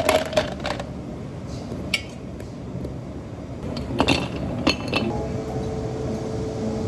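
Glassware and metal utensils clinking in sharp clusters as a drink is made behind a cafe counter. A steady hum starts about five seconds in.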